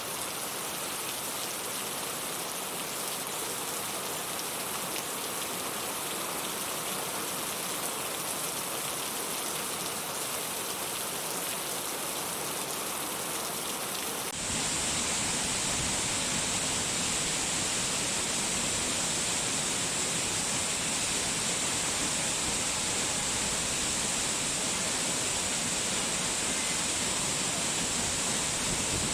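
Steady rushing-water noise, even and unbroken. About halfway through it switches abruptly to a louder, deeper rush.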